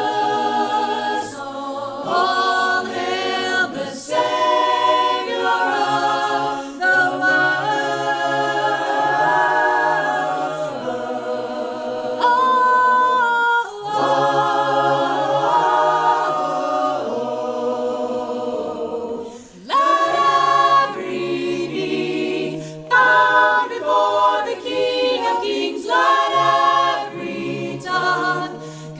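A choir singing a cappella in several-part harmony, with no instruments.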